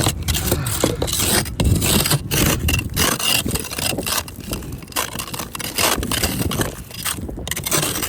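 Snow and ice being scraped off a car window in quick, irregular strokes, over the low rumble of strong wind on the microphone.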